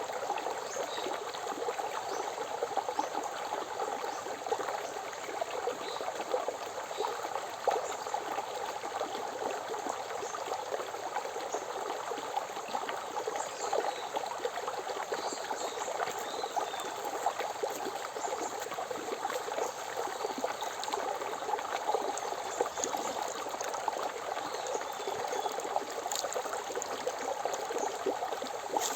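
Forest river flowing steadily, with a few faint bird chirps now and then.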